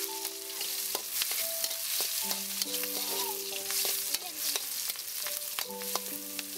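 Chopped green chillies and garlic sizzling in hot oil while a spoon stirs them, with scattered scrapes and knocks of the spoon against the pot. Soft background music with long held notes plays underneath.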